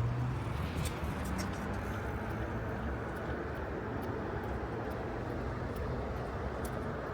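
Steady city traffic noise: cars running along a busy street, with a few light clicks scattered through it.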